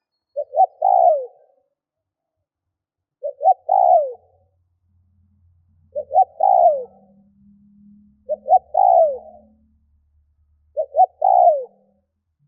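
Spotted dove cooing its song: five phrases about two and a half seconds apart, each two short coos and then a longer falling coo. This is a decoy bird's call, used to lure wild doves.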